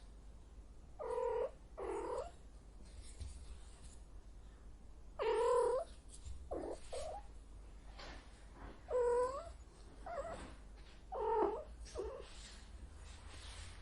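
A cat meowing repeatedly: about nine short calls with a rising-and-falling pitch, some coming in quick pairs, with pauses between.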